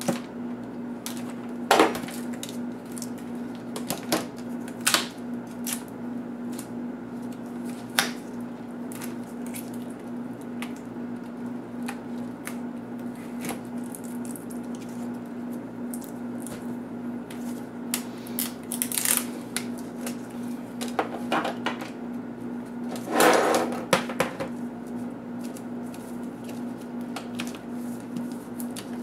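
Laptop parts being handled during disassembly: scattered sharp clicks and taps of plastic and metal pieces, with a longer scraping rattle about two thirds of the way in, over a steady low hum.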